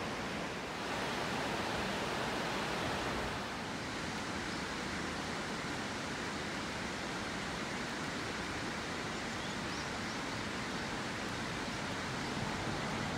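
Steady rushing wash of rain and river water, a little louder between about one and three and a half seconds in.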